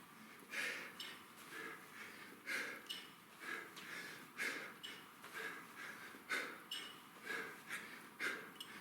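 A man breathing out sharply in rhythm with kettlebell high pulls, one forceful exhale about every second, nine in a row.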